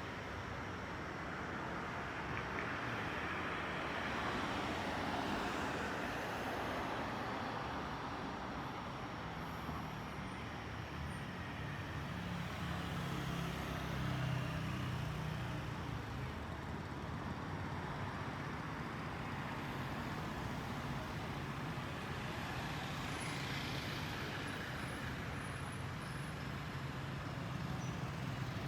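Steady city road traffic: engines of passing vehicles humming, swelling and fading every several seconds.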